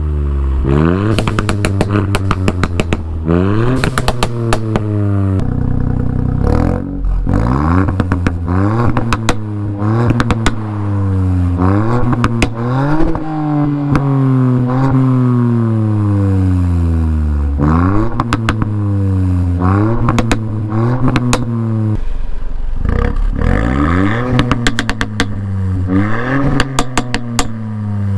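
Mk8 Ford Fiesta ST's 1.5-litre three-cylinder turbo engine revved again and again through its exhaust, the pitch rising and falling with each blip, with rapid pops and crackles between revs. One longer rev falls away slowly about halfway through.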